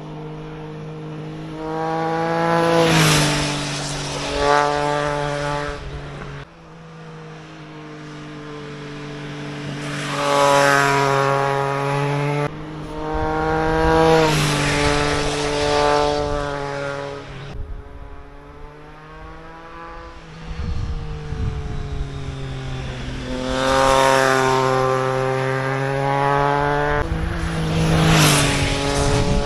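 Triumph Trident 660 inline-three motorcycle with a GPR aftermarket exhaust passing by at speed, about five times. On each pass the engine note swells and then drops in pitch as it goes by.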